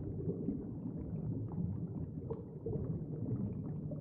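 Underwater ambience: a steady low rumble with faint scattered clicks.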